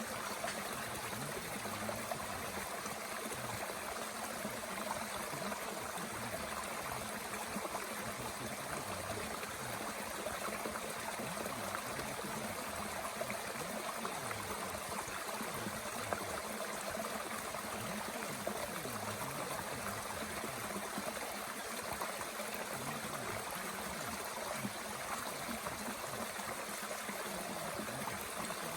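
A mountain stream running steadily, with scattered small crackles from wood burning in a Bushbox twig stove.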